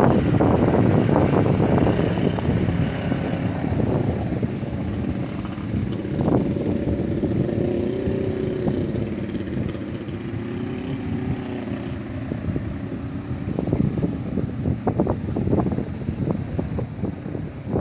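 Storm wind gusting hard against the microphone, a heavy low buffeting rumble with irregular bursts. It eases in the middle, where a low wavering howl rises and falls, and picks up in sharp gusts again near the end.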